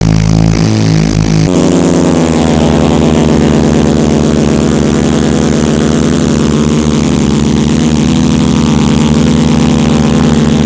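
Monster truck engine running loud and steady at high revs, with an even low pulsing, starting abruptly and settling into a steady note about a second and a half in.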